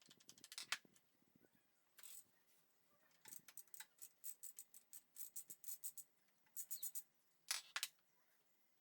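Hand ratchet wrench clicking in several short bursts of rapid clicks, with brief pauses between them.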